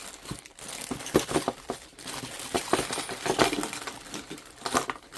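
Hands rummaging through a bag of costume jewelry and coins: small metal pieces clinking and clattering against each other amid crinkling of the bag.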